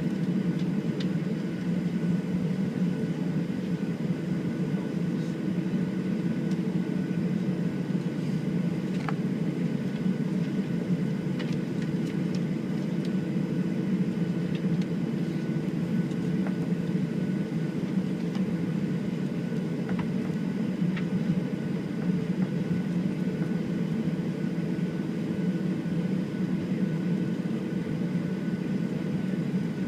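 Steady drone of a Boeing 737-700's CFM56 engines heard from inside the passenger cabin, a low hum with a few faint steady whines above it and no change in power.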